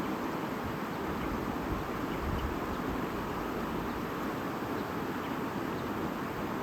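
A stream babbling over stones, a steady rushing murmur of water.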